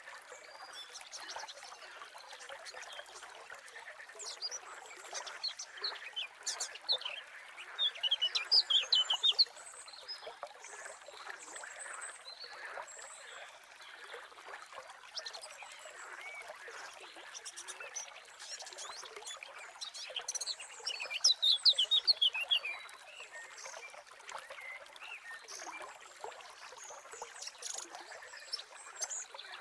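Birds chirping and singing in a continuous background chorus. Two louder runs of quick repeated notes stand out, one about eight seconds in and one about twenty-one seconds in.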